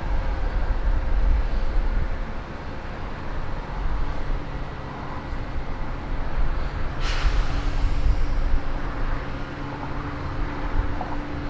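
Steady low rumble of running railway machinery with two constant hums, broken about seven seconds in by a short burst of hissing air.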